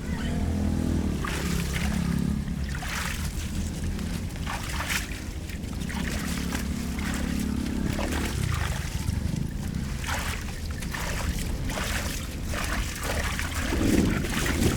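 Flood water splashing and trickling, with short splashes again and again over a steady low rumble.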